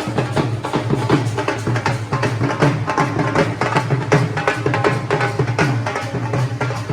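Dhol drums beaten in a fast, steady rhythm of dense strokes, with a strong booming low end.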